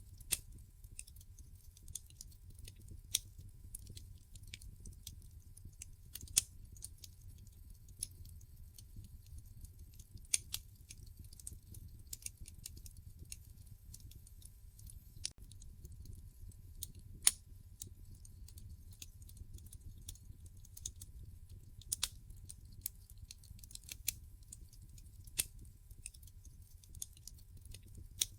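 Wood fire crackling in a fireplace: irregular sharp pops and snaps from the burning logs, a couple of louder ones standing out, over a low steady rumble.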